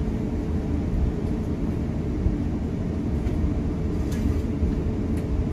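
Steady low rumble of engine and airflow noise inside the cabin of an Airbus A350-900 airliner in flight, with a couple of faint ticks about four and five seconds in.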